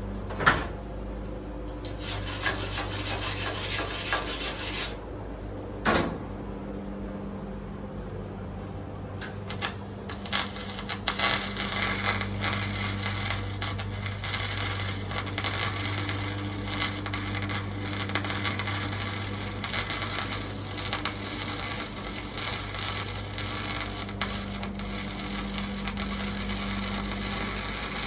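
Welding arc crackling on thin sheet-metal floor panel, a short run about two seconds in and a long unbroken run from about ten seconds in, with a steady hum beneath. A sharp knock sounds just after the start and again about six seconds in.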